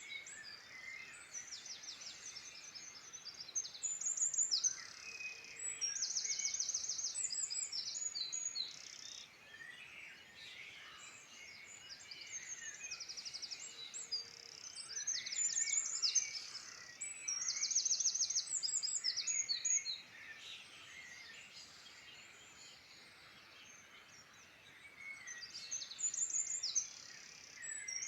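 Several songbirds singing: one repeats a high, rapid trilled phrase about a second long every few seconds, while others chirp and warble more softly around it.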